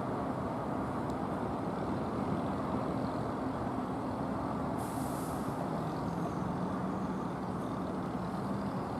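Heavy truck engine running steadily, its note dropping slightly partway through, with a short burst of air hiss from the air brakes about five seconds in.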